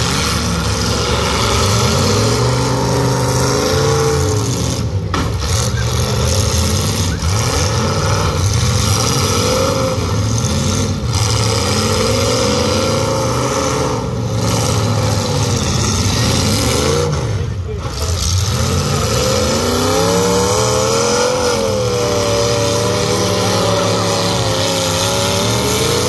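Demolition derby cars' engines revving up and down, several at once and overlapping, loud and continuous, over the chatter of the crowd in the stands.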